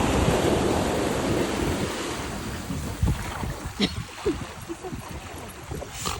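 Ocean surf: a wave breaks and washes up the beach, loudest at the start and fading over about three seconds, with wind buffeting the microphone.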